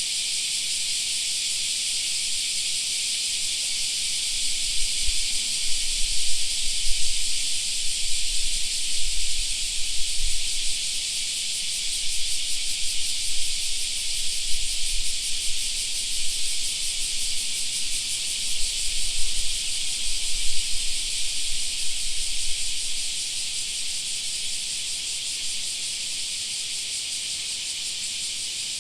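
A chorus of cicadas droning steadily with a high, hissing shrill. From a few seconds in until near the end, an irregular low rumble comes and goes beneath it.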